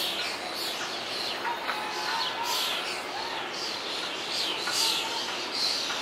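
Birds chirping over and over: short, high notes, each dropping in pitch, over a steady outdoor hiss.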